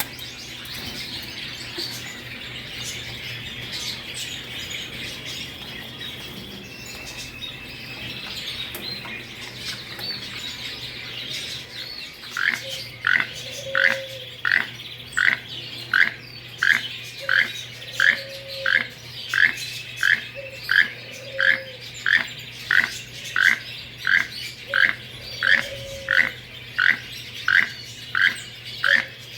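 Many caged birds chirping and calling together. About twelve seconds in, one bird starts repeating a short, falling call about one and a half times a second, steadily to the end, with low cooing, typical of doves, now and then between the calls.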